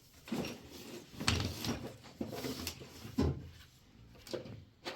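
A series of sharp knocks and clatter with rustling between them, like objects being handled and set down.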